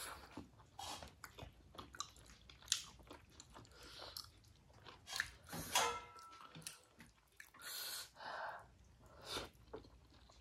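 Chewing and biting of momo dumplings, a run of irregular short wet mouth clicks with a few louder bites and slurps.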